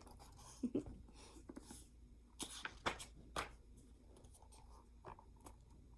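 Faint paper rustling with a few soft clicks: a book's page being handled and turned.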